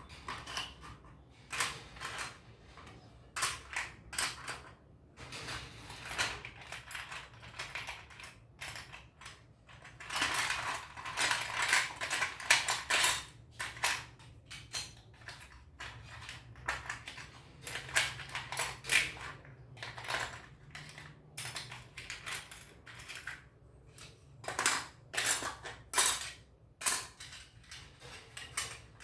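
Parts of a construction kit clicking and clattering as they are handled and fitted together: a run of short clicks and knocks, busiest around the middle.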